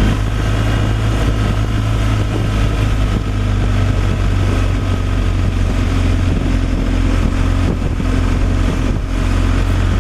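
Semi-truck engine running at a steady speed while driving, a constant low drone with road noise.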